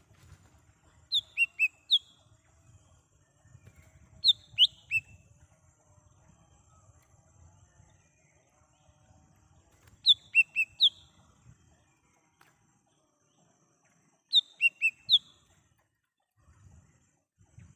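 Cucak ijo mini (a small green leafbird) calling: four short phrases, each of about four sharp, quickly falling notes, spaced several seconds apart.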